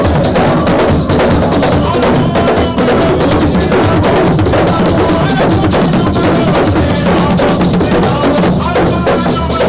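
Loud, drum-heavy music: fast, dense drum strokes over a steady bed of pitched sound, without a break.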